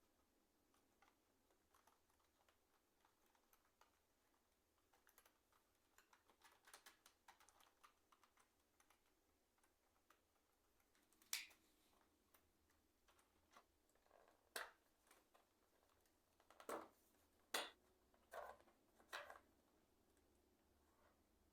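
Keys of an ICL membrane keyboard being pressed: a run of soft, quick key clicks, then a few louder, separate clicks in the second half.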